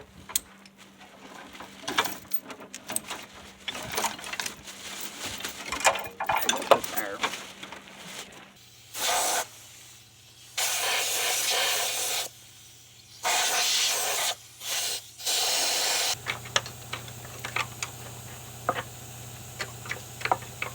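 Compressed-air blow nozzle fired in five bursts of hiss, each from half a second to nearly two seconds long, blowing debris out while bolts are broken loose. Before the bursts come scattered metal clinks and knocks of tool work. After them a steady low hum sets in.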